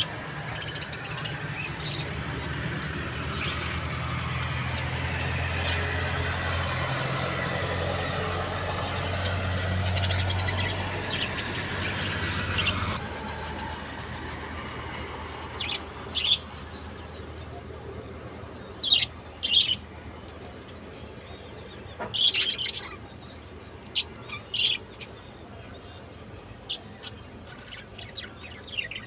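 A vehicle engine hums steadily, growing louder and then stopping abruptly about 13 seconds in. After that, small birds chirp in short, sharp calls, a few seconds apart.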